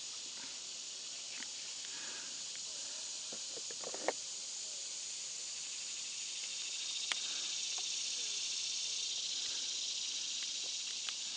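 Steady high-pitched insect chorus, swelling a little past the middle, with a few faint clicks.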